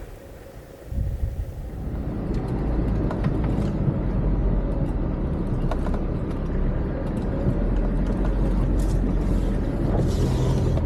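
Off-road 4x4's engine running with a steady low rumble that sets in suddenly about a second in and grows louder a second later, with scattered light knocks.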